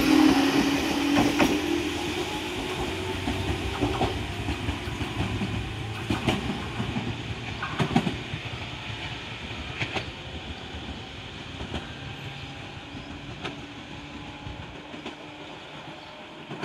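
Toyama Chihō Railway 14760-series electric train pulling away and moving off into the distance, its wheels clacking over rail joints every second or two. The motor hum fades early, and the whole sound grows steadily fainter as the train recedes.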